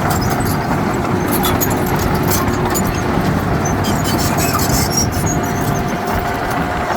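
Heavy diesel earthmoving machinery running steadily at work, a dense engine and mechanical clatter with a thin steady whine on top.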